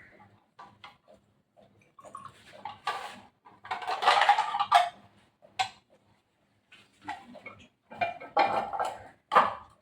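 Irregular clattering and scraping of hard objects being handled, loudest about four seconds in and again near the end.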